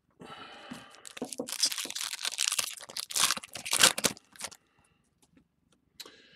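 A trading-card pack's foil wrapper being torn open and crinkled by hand, a dense crackling for about four seconds that stops suddenly.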